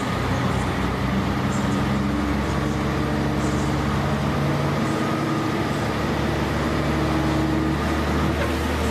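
Heavy machine engine running steadily, a low, even drone with only slight shifts in pitch.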